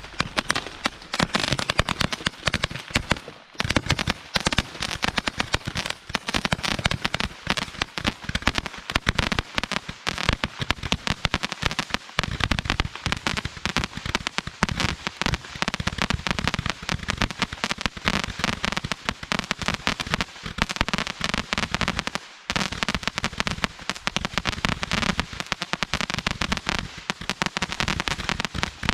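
Consumer fireworks going off in a rapid, continuous barrage of cracks and pops, dense throughout, with brief lulls about three and a half seconds and twenty-two seconds in.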